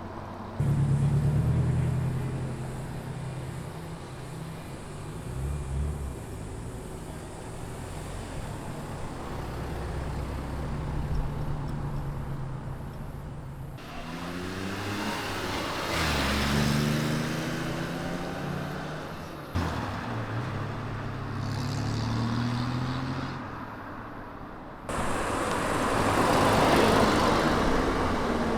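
A series of modified cars' engines and exhausts, heard one after another as they drive off. Low, steady engine notes at low revs give way about halfway through to a car accelerating with revs climbing and changing up, and near the end a louder, rougher run.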